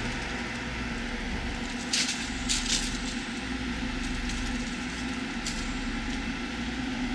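Steady hum of the two auxiliary radiator fans and circulation pump running on the heat pump's closed water-glycol cooling loop, with a few light clicks about two seconds in, again shortly after, and once more near the middle.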